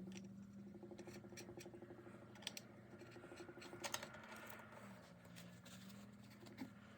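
Faint scattered clicks and light metal taps of bolts being started by hand into a Ford Toploader 4-speed transmission, over a low steady hum.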